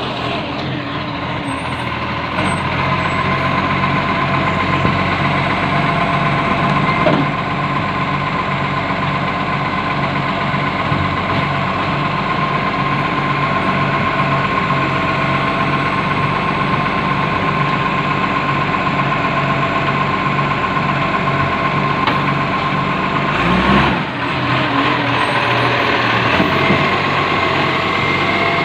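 Truck's diesel engine idling steadily, with a steady high whine over the engine note. Its level steps up slightly about two seconds in, and there is a short louder burst about 24 seconds in.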